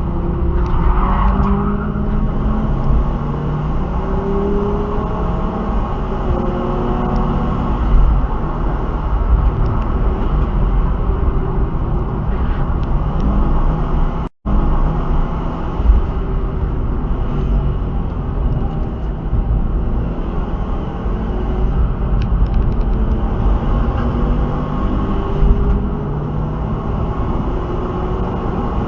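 Car engine running under way, its revs rising and falling, over a heavy low rumble. The sound cuts out completely for a split second about halfway through.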